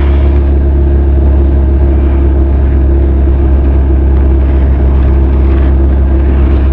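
Benelli TRK 502 motorcycle's parallel-twin engine and exhaust running steadily under way, an even, unchanging drone at a constant speed.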